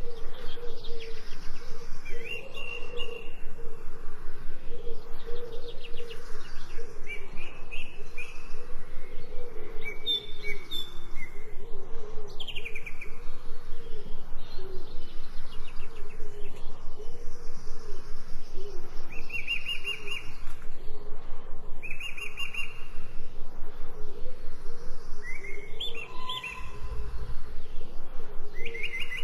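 Birds chirping in short repeated calls over a steady hiss of falling rain.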